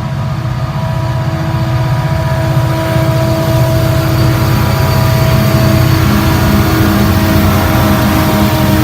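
Diesel freight train passing close: a fast, steady engine pulsing with a steady whine above it, growing louder.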